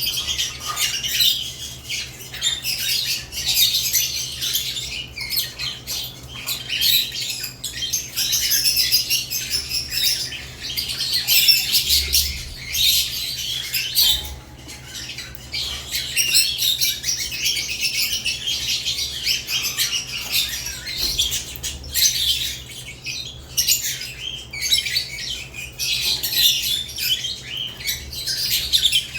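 Caged lovebirds chattering and squawking continuously, many rapid high-pitched calls overlapping, with brief lulls.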